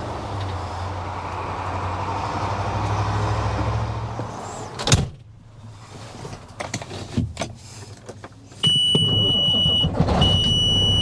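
Dump truck engine idling steadily, then a loud thump about five seconds in, after which the engine is faint and there are small scattered clicks. Near the end the idle is loud again and a high beep sounds in long repeated pulses.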